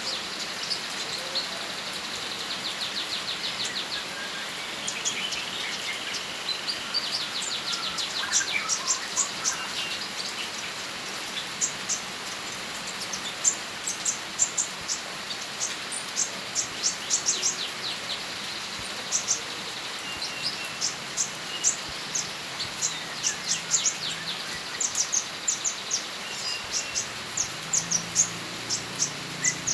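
A small songbird singing: rapid high trills and quick runs of sharp, high chirps, repeated over and over against a steady hiss.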